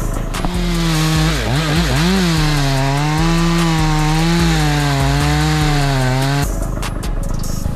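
Chainsaw running at high revs and cutting wood, its pitch dipping and recovering as it loads in the cut, then stopping abruptly about six and a half seconds in. Background music with a bass line plays underneath.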